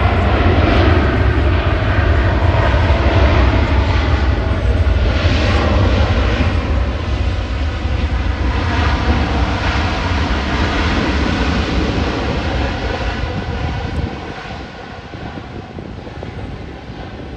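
Jet airliner's engines running loud and close, a heavy low rumble with a rushing roar over it, falling away sharply about 14 seconds in as the aircraft moves off.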